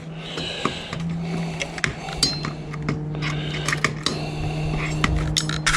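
Light metallic clicking and clinking of small parts and tools as wiring is pulled off an autoclave's circuit board, heard over a steady low hum.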